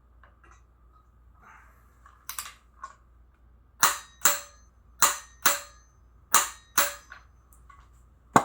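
Sharp metal clicks from hand tools working on the crank bolt and the bolted-on crank locking tool. A few light clicks come first, then three loud pairs of clicks about a second and a half apart, the two clicks in each pair a little under half a second apart.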